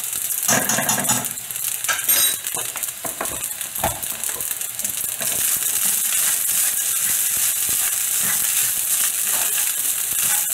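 Fried rice with ham and mixed vegetables sizzling steadily in a very hot wok while it is stirred, with a few sharp clicks and scrapes of the metal utensil against the pan and one brief ringing clink in the first few seconds.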